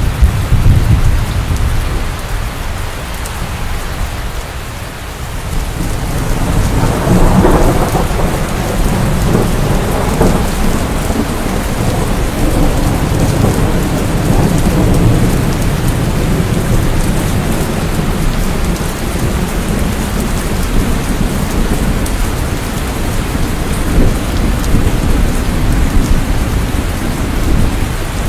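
Steady rain in a thunderstorm with thunder rumbling low underneath. A fresh roll of thunder swells about seven seconds in and rumbles on.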